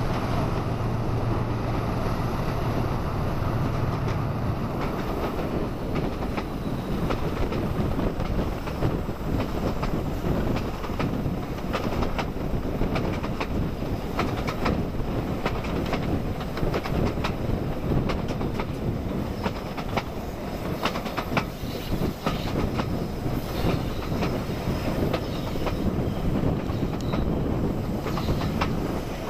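Diesel-hauled train running at speed, heard from a coach window: a continuous rumble with wheels clicking over rail joints. The throb of the Class 40 locomotive's English Electric 16SVT diesel engine is strongest in the first few seconds, as the train leaves the tunnel, then sinks back under the wheel noise.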